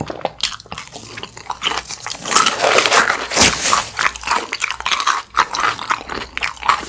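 Close-miked chewing and wet mouth sounds, with a louder crinkly rustle about halfway through as a black disposable glove is peeled off the hand.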